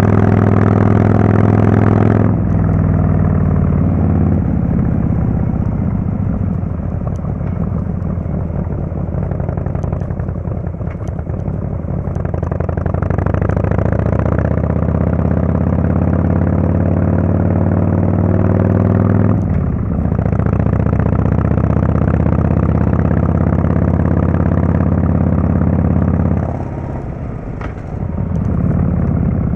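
Harley-Davidson Fatboy S Screamin' Eagle Twin Cam 110 V-twin running through a Kesstech exhaust under way. The engine note drops about two seconds in, then climbs slowly as the bike pulls. The pitch falls sharply near the middle and holds steady, then dips briefly near the end before picking up again.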